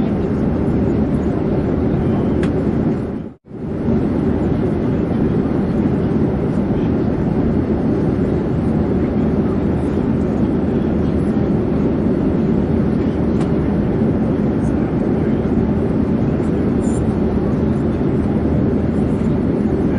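Airplane noise: an even, steady rumble and hiss that stays the same throughout. It cuts out for a split second about three and a half seconds in and comes straight back.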